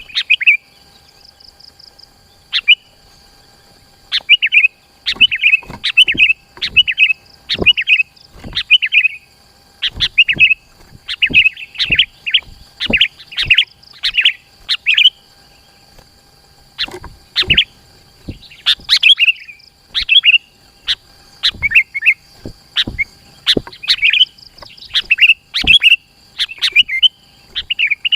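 Sooty-headed bulbul (kutilang) singing in quick, tightly packed runs of short chirping phrases, pausing briefly about a second in and again past the middle.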